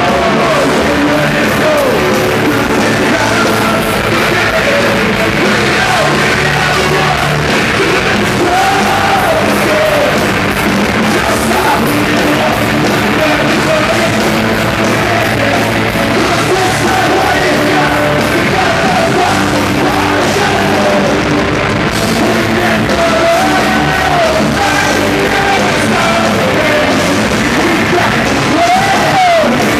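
Live rock band playing loud, dense hard rock, with a singer's yelled vocals over it.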